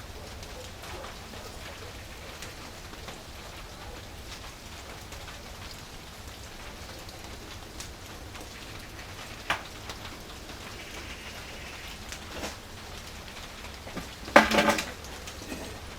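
Wood fire burning in a traditional wood-fired pottery kiln, with a steady crackling hiss and scattered sharp pops. Two single knocks come in the middle, and a louder brief clatter comes near the end.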